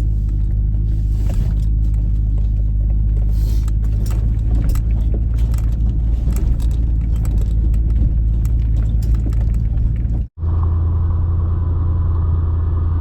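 Vehicle rumbling steadily with scattered rattles as it creeps down a steep hill on its brakes. About ten seconds in the sound cuts out for an instant and gives way to a smoother, steadier drone with a low hum.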